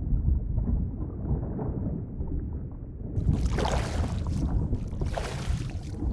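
Underwater ambience: a muffled, low rumbling wash of water. About three seconds in it switches abruptly to brighter rushing, bubbling water that comes in surges.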